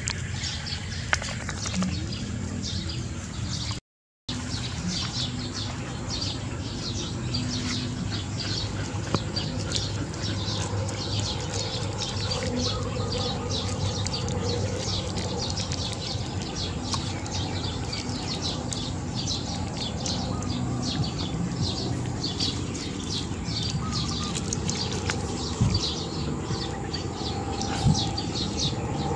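Birds chirping busily and without a break, rapid high chirps over a steady low hum. The sound drops out for a moment about four seconds in.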